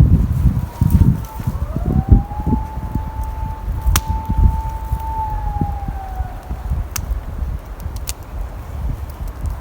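Strong wind buffeting the microphone in low rumbling gusts, with a few sharp clicks. A single long wailing tone rises about a second and a half in, holds, and falls away near the six-second mark.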